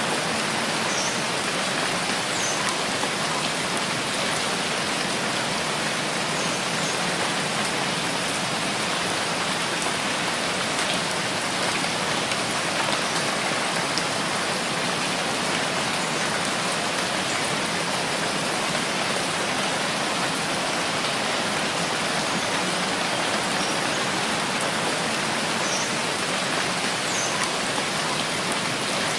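Steady, even rainfall with no let-up, a continuous patter of rain on a surface.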